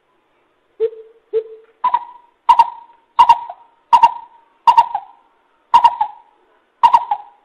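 Coucal (bubut) calling: a series of hooting notes, two lower ones followed by about seven higher-pitched ones at a steady pace of roughly one a second or a little faster.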